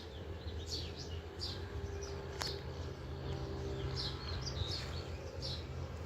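Birds chirping: short high chirps sliding downward, one or two a second, over a steady low hum, with a single sharp click about halfway through.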